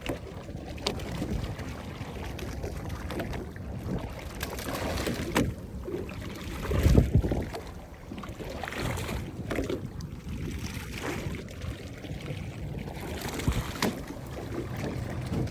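Wind and water noise aboard a fishing boat at sea, with scattered knocks and a louder low surge about seven seconds in.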